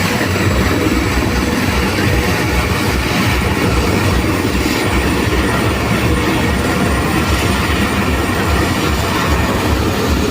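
Helicopter running loudly at close range: a steady rush of rotor and engine noise with a fast low throb.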